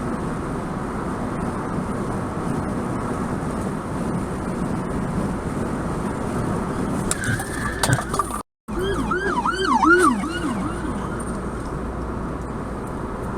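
Road and engine noise from a car driving, then, after a short break, an emergency vehicle siren wailing up and down for about two seconds before the road noise carries on.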